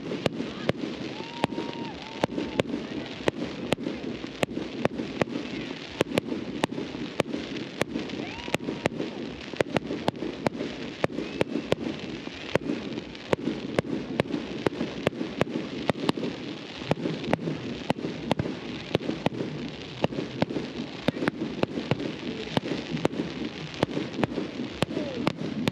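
Fireworks display going off in a steady stream of sharp bangs, about two or three a second, over the chatter of a large crowd.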